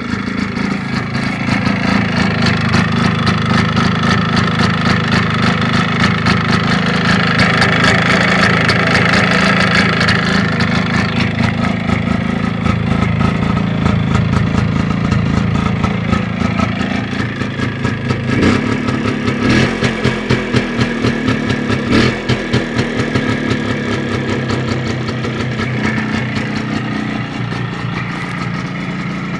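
Minsk two-stroke single-cylinder motorcycle engine running, its pitch rising over the first few seconds and holding high. Around the middle it breaks into a stretch of uneven, loud pulses, then settles to a lower, steadier run near the end.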